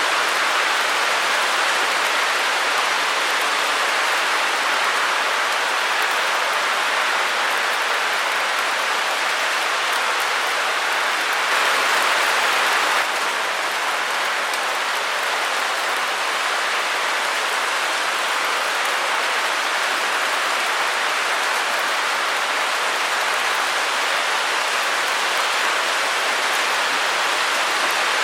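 Steady, even white-noise hiss without rhythm or tone, a little louder for about a second and a half near the middle.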